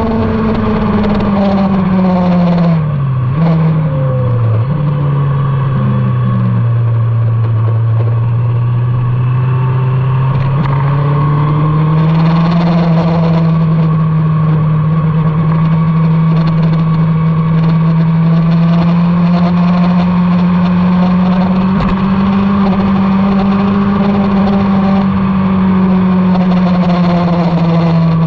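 Motorcycle engine at speed on a racetrack. The engine note falls over the first few seconds, with two quick downshift blips, then climbs slowly and steadily for the rest, over a steady rushing noise.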